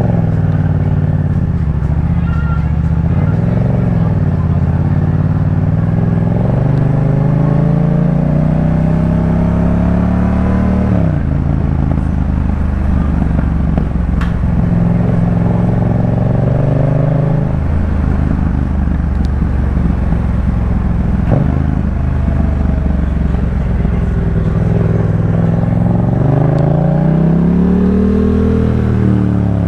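Yamaha MT-07's 689 cc parallel-twin engine through a Jeskap K4 full exhaust, under way. The engine note climbs under throttle and drops sharply about a third of the way in. It then runs steady, climbs again near the end and falls off.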